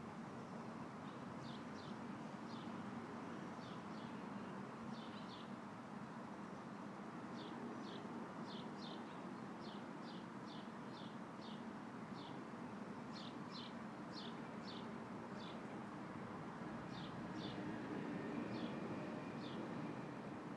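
Steady breezy outdoor rushing, slightly stronger for a couple of seconds near the end. Over it a small bird chirps again and again: short high chirps that drop in pitch, often in pairs or quick runs of three or four.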